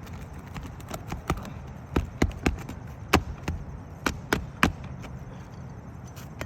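A run of irregular sharp knocks and taps on a shingle roof, about a dozen in the middle few seconds, some coming in quick pairs, with a steady low background.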